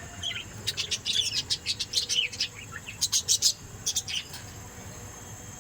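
A small bird singing in quick, high chirping phrases: three bursts of twittering, the last brief, over a steady high tone in the background.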